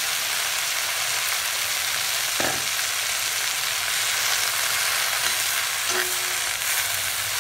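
Fresh mint leaves sizzling steadily as they fry in hot oil in a pan, with a couple of light knocks.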